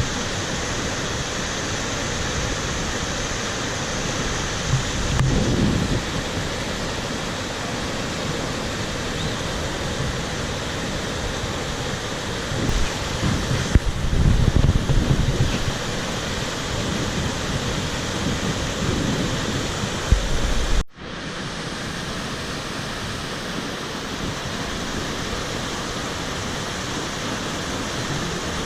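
Steady rushing of a swollen, monsoon-flooded mountain stream, with a few low rumbling swells from wind on the microphone. The sound drops out for an instant about two-thirds of the way through.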